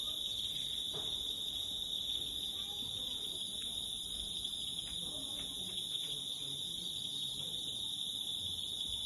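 Steady, high-pitched chorus of night insects: a continuous shrill drone with fainter, higher tones above it.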